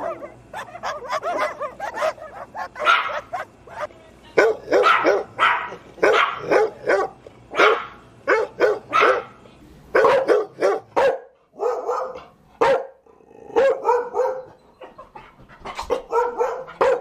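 Dogs barking over and over in quick runs of barks. A low background hum under the barking stops about ten seconds in, and the barking goes on in shorter clusters.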